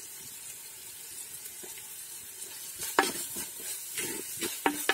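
Chopped onion and tomato sizzling in coconut oil in a clay pot, with a steady hiss. From about three seconds in, a wooden spoon stirs the mix, knocking and scraping against the pot a few times.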